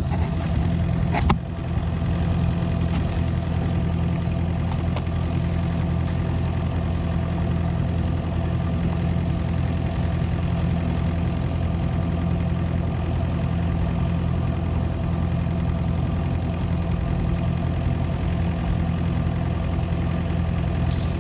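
Kubota KX71-3 mini excavator's diesel engine idling steadily, with an unchanging pitch. A brief knock sounds about a second in.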